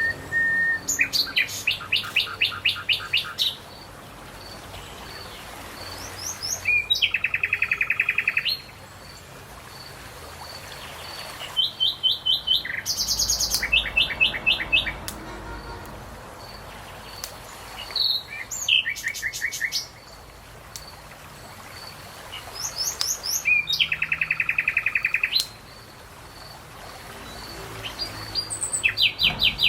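A songbird singing short songs again and again: about six phrases, each a couple of seconds of fast, evenly repeated trilled notes, with pauses of a few seconds between them, over a faint steady background hiss.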